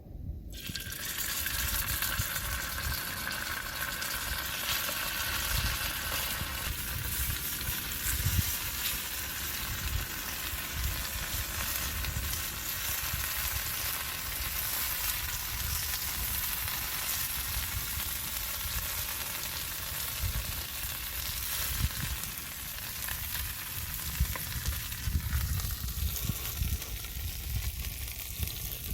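Food frying in a hot pan: a steady sizzle that starts suddenly just after the start, as the food goes in.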